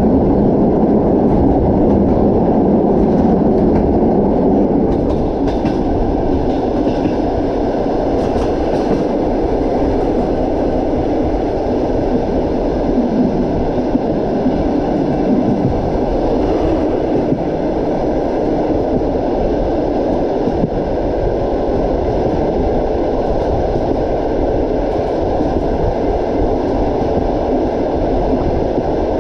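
A moving train's wheels running on the rails: a loud, steady rumble with a few faint clicks.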